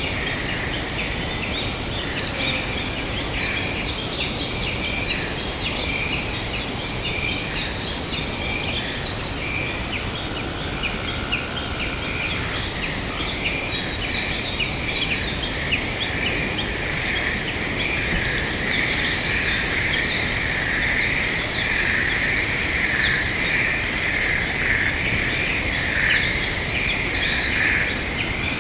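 A flock of birds calling together, many short overlapping chirps over a steady background noise, getting a little louder about two-thirds of the way through.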